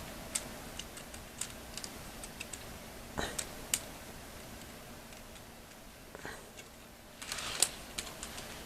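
Light, scattered clicks and taps of an HO scale model hopper car being handled and set back on the track, with a short cluster of clicks and rustle near the end.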